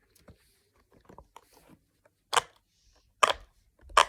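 Silicone pop-it fidget toy being pressed, its bubbles popping: a few faint clicks, then three sharper pops less than a second apart in the second half.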